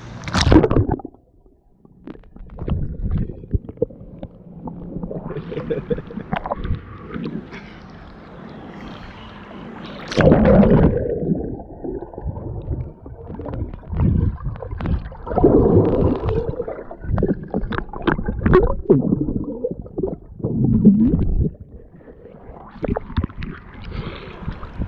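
Swimming-pool water splashing and sloshing in irregular bursts as people wade and swim, with louder splashes about ten seconds in and several more through the second half.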